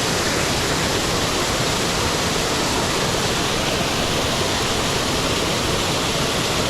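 Fast-flowing mountain stream rushing and splashing over rocks, a loud steady roar of water.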